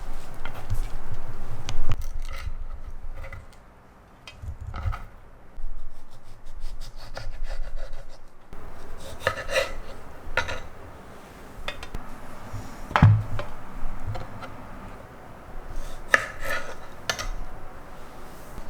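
Kitchen prep handling sounds: rubbing and scraping with scattered light clicks and knocks of kitchenware, and one louder knock about 13 seconds in.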